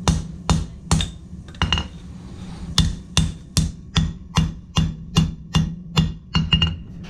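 Blacksmith's hammer striking steel on an anvil in steady shaping blows, about two and a half a second, with a short pause about two seconds in; each blow rings briefly. A steady low hum runs underneath.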